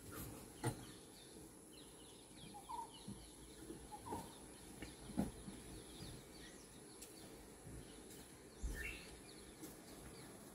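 Quiet outdoor ambience with faint, scattered bird chirps, a few soft knocks, and a low thump late on.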